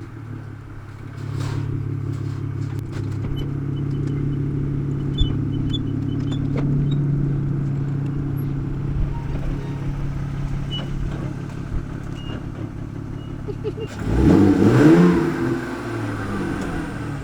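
Car engine running steadily at idle, then revved up and down a couple of times near the end.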